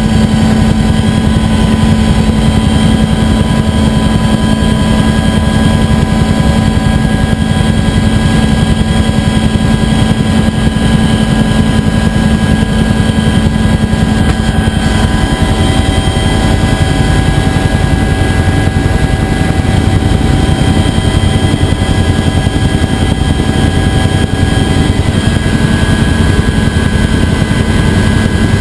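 UH-1 Huey helicopter running steadily in flight: a continuous loud drone of rotor and engine, with steady high whining tones on top.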